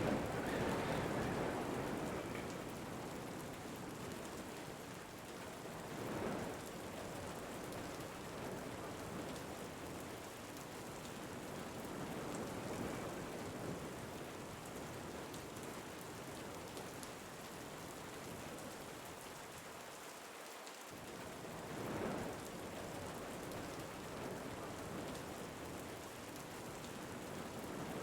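Steady rain falling, with wind swelling in gusts: once at the start, again after about six seconds, and once more near the end.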